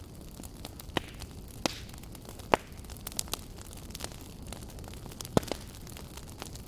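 Wood fire burning in a fireplace, crackling with irregular sharp pops over a steady low rush; the loudest pops come about two and a half seconds and five and a half seconds in.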